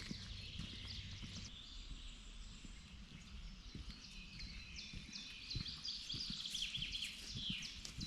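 Songbirds singing, a run of high chirps and trills with falling phrases near the end, over a few soft low knocks.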